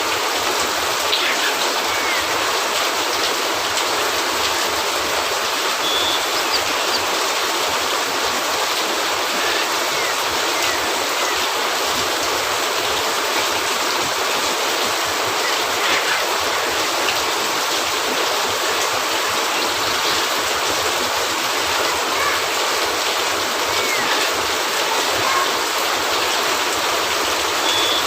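Steady rain falling on a cabin roof, a dense even hiss, with a few faint pops now and then.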